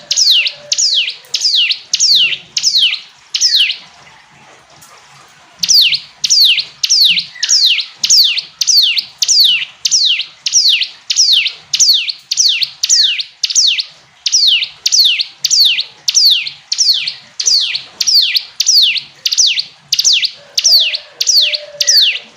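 Bar-winged prinia (ciblek gunung) singing: a loud series of identical down-sweeping notes, about two a second, broken by a pause of about two seconds a few seconds in before the series resumes.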